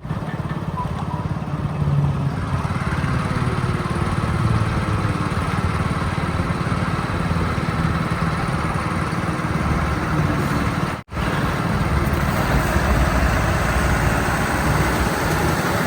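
Heavy diesel earth-moving machinery running steadily, a dense low engine rumble, with a brief break about eleven seconds in.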